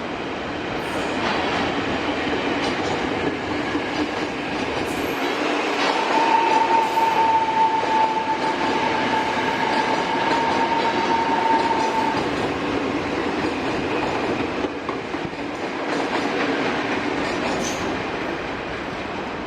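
A train passing at close range with the steady rumble and clatter of its wheels on the rails. A single steady high tone rings for about six seconds in the middle.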